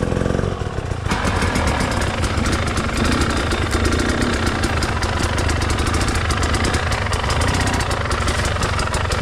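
Enduro dirt-bike engine running, getting louder and rougher about a second in as the throttle is worked.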